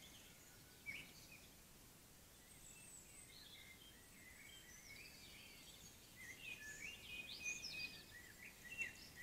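Faint bird song: varied short chirps and quick whistled glides, sparse at first and busier from about two-thirds of the way in, over a faint background hiss.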